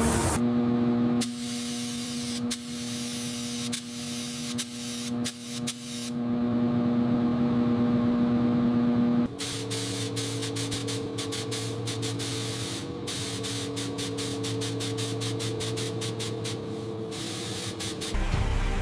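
A steady machine hum under a hissing spray, with scattered sharp clicks. About nine seconds in the hum drops to a different pitch, and a fast run of clicks follows.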